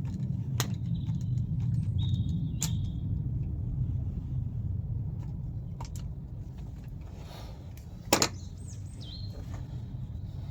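Steady low rumble with a few sharp clicks and knocks of parts being handled, the loudest about eight seconds in, and a short high chirping tone twice.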